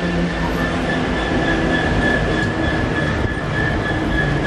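Freight train wagons rolling by on the rails: a low rumble with a steady high-pitched wheel squeal over it.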